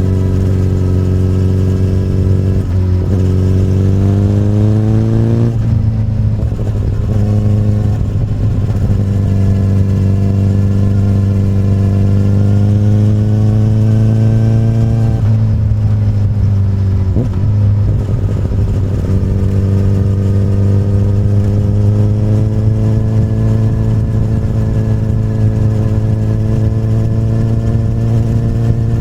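2008 Honda CBR1000RR's inline-four engine running through an Akrapovic carbon slip-on exhaust under way. Its note rises steadily, drops sharply twice (about five seconds in and again about halfway), then climbs once more.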